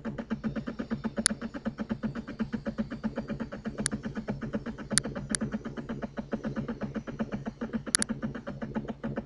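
A small machine running with a fast, even pulse of about seven beats a second, with about six sharp clicks scattered through it.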